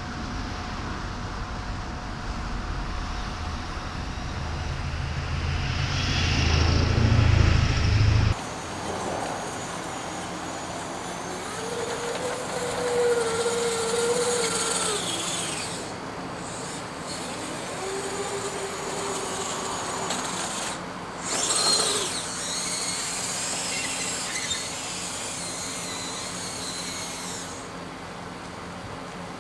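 Small electric motor of a radio-controlled hydraulic excavator whining in bursts, its pitch rising and falling as it works. Heavy wind rumble on the microphone for the first several seconds, cut off suddenly.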